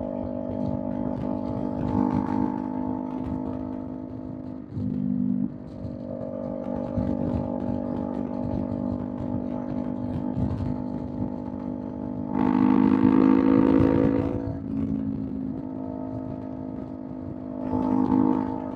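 Kawasaki Z400 parallel-twin engine through a Villain M1 aftermarket exhaust, running at a steady pitch while cruising. There is a brief change in the note about five seconds in, a louder, slightly rising surge of throttle for about two seconds past the middle, and another short swell near the end.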